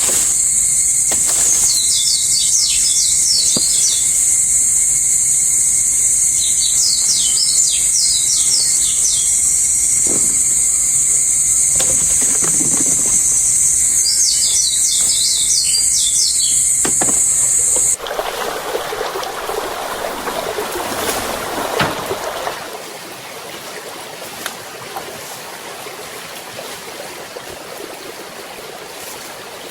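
Forest ambience: a loud, steady, high-pitched drone with a bird's chirping trills breaking in four times. About two-thirds of the way through it cuts off abruptly to a softer, steady rushing noise.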